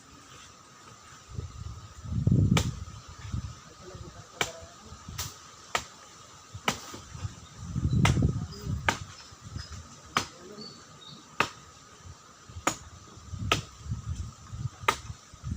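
A dozen or so sharp, irregular clicks or snaps with low rumbling thuds in between, over a faint steady high drone like insects.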